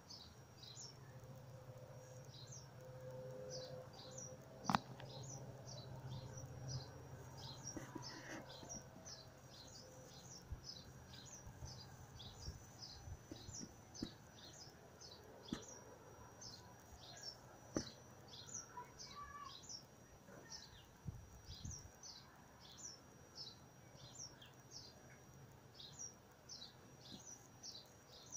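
Bird chirping steadily, short high notes about two a second, over the faint low drone of a distant police helicopter that fades over the first ten seconds.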